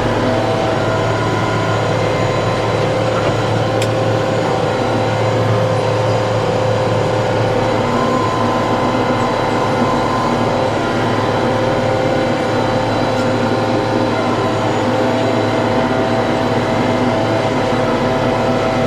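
TYM T654 tractor's diesel engine running steadily at constant speed, with a steady mechanical whine on top.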